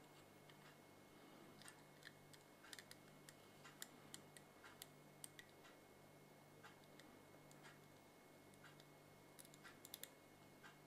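Near silence with faint, irregular small clicks and ticks, a few each second, over a steady low hum.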